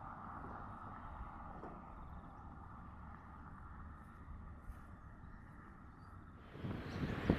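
Faint low rumble and wind, then about six and a half seconds in the Airbus A380's jet engines come in sharply loud as the takeoff noise builds.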